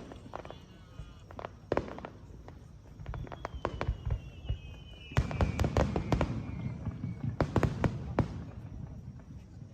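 Aerial fireworks heard at some distance, a run of sharp cracks and pops that is thickest through the second half. A thin, high whistle glides slowly downward in pitch across the middle.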